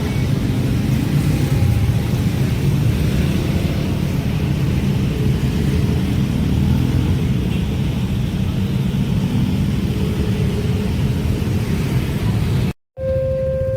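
A train running past at speed with a steady low rumble of wheels on rails. Near the end the sound cuts off abruptly and a level-crossing warning alarm starts up with steady tones.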